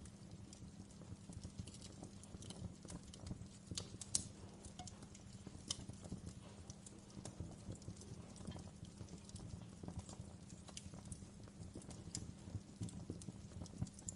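Wood fire crackling in a fireplace: irregular sharp pops and snaps, one louder pop about four seconds in, over a low steady rumble of burning.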